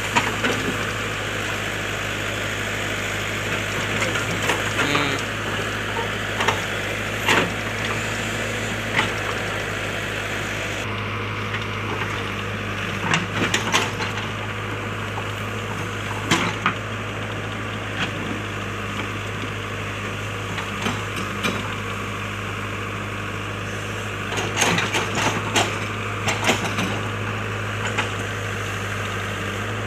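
JCB backhoe loader's diesel engine running steadily, with scattered sharp knocks, some coming in quick clusters.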